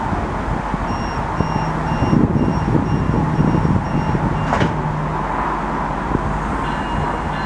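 Stadler GTW diesel railcar running at the platform while its door-closing warning beeps sound at about two beeps a second, ending with a sharp burst of noise as the doors shut about four and a half seconds in.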